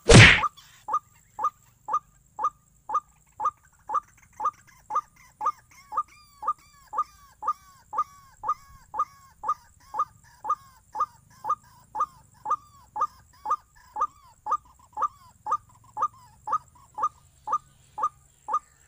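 White-breasted waterhen calls, short notes repeated very evenly about twice a second. A loud sharp whack right at the start.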